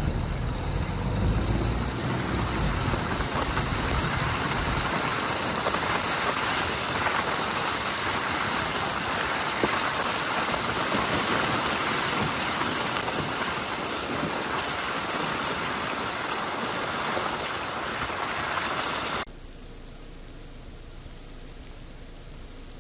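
Steady rushing outdoor noise with low wind rumble on the microphone in the first few seconds, cutting off abruptly near the end to a quieter steady hiss.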